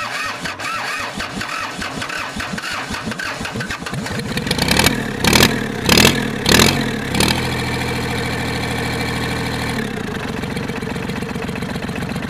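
Kubota L2500 three-cylinder diesel engine cranking on the starter with a rhythmic chug, then catching on starting fluid about four seconds in. It fires in several loud, uneven bursts before settling into a steady run, and eases down slightly near the end.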